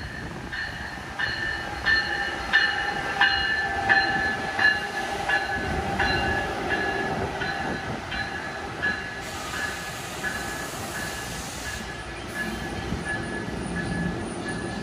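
NJ Transit ALP-45A electric-diesel locomotive running under the wires, pulling a bilevel train past, with its bell ringing steadily at about one and a half strokes a second, loudest in the first half. Under the bell are the rumble of wheels on rail and a whine that slowly falls in pitch, and a hiss comes in for a few seconds past the middle.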